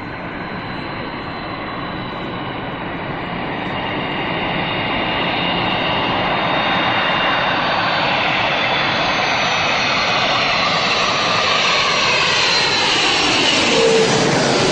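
Airplane engines passing low overhead: a roar with a high whine that builds steadily louder, then drops in pitch as the plane goes by near the end.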